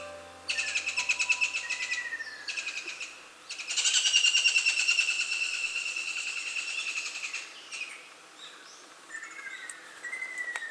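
Wild birds calling: several loud, rapid, buzzy trills lasting one to three seconds each, with fainter falling whistled calls between them.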